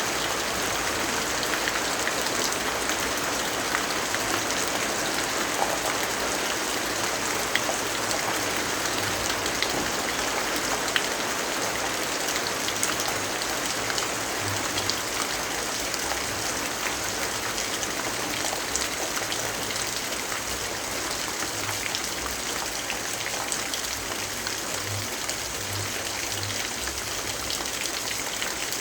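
Steady, even rainfall, with many small drop ticks scattered through it.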